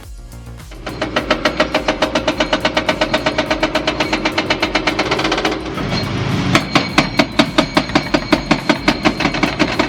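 Hydraulic breaker on an excavator hammering concrete in fast, even blows, about five a second. A little past the middle the blows stop for about a second while the machine's engine is heard, then the hammering resumes.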